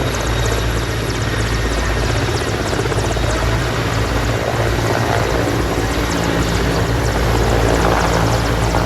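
Helicopter running loudly and steadily: the whir of the main rotor and the turbine noise of a helicopter taking off, growing a little louder near the end.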